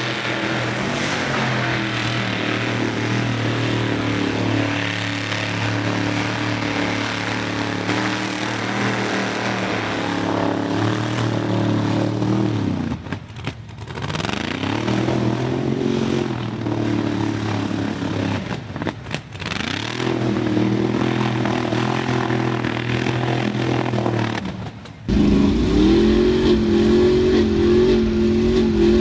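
Mud truck engine running hard at high revs, the revs dropping and climbing back twice. About three-quarters of the way through it gives way abruptly to a louder, deeper engine.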